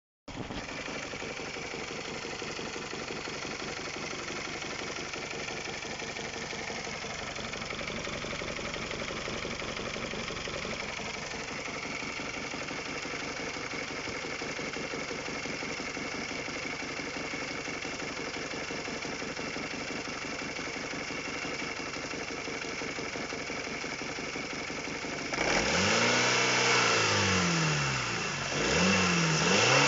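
Honda K20A4 2.0-litre four-cylinder engine idling steadily with a knock, the sound the owner is showing as engine knock. About 25 seconds in it is revved up and let fall back several times.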